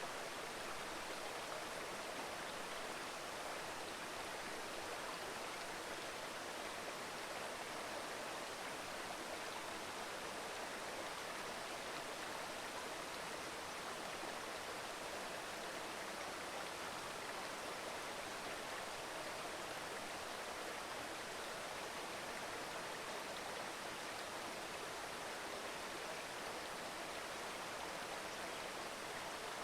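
Mountain river murmuring over rocks, a steady rushing of water with no change.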